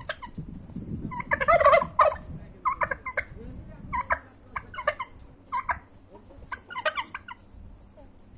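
Bronze turkey gobbling repeatedly, a loud rattling gobble about a second in followed by a series of shorter gobbles.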